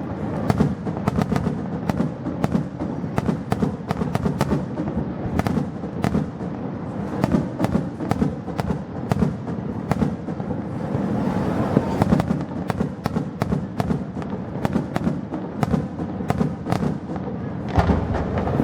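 Aerial fireworks going off in a dense barrage: many sharp cracks and bangs in quick succession over a continuous low rumble, thickest near the end.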